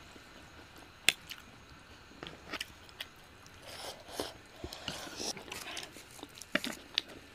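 Chewing and mouth sounds of people eating potato thukpa noodles, with a few sharp clicks, the loudest about a second in.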